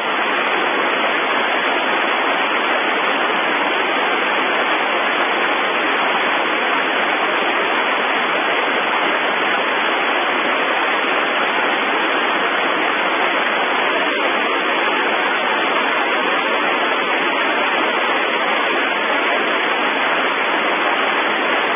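Steady, loud hiss of static on an air traffic control radio frequency, with no transmission heard.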